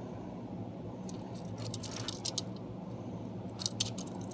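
Small push-along toy engines being handled, giving light clicks and rattles in two short clusters over a steady low hum.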